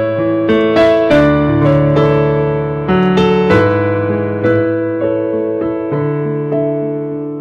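Keyboard with a piano sound playing slow, sustained chords with melody notes struck over them, the notes ringing on and slowly dying away.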